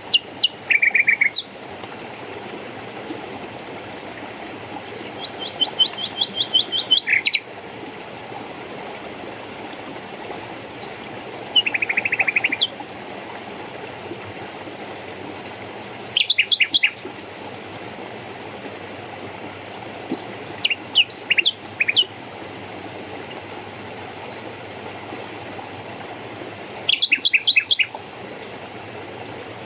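A songbird singing short phrases of rapid repeated notes, about six of them spaced several seconds apart, some opening with a soft higher whistle. Under it runs the steady rush of a flowing stream.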